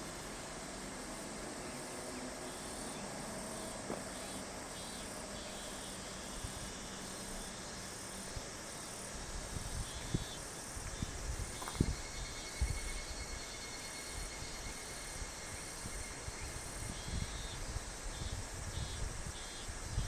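Summer insects calling in repeating pulsed trills over a steady hiss. Low rumbling thumps come and go around the middle and near the end.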